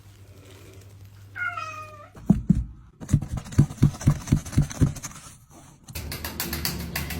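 A cat meows once, a falling call about a second and a half in. It is followed by a run of about seven low thumps, roughly two or three a second.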